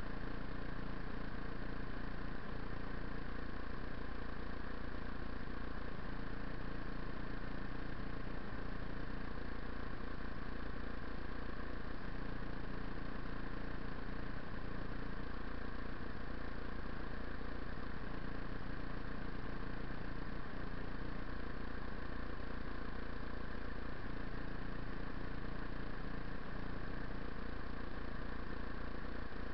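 2008 Buell XB9SX's 984 cc air-cooled V-twin idling steadily with the bike at a standstill.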